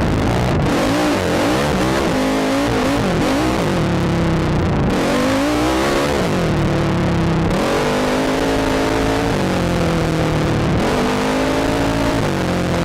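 ATV engine revving up and down repeatedly under changing throttle, its pitch rising and dropping several times with short steadier stretches, over a steady hiss.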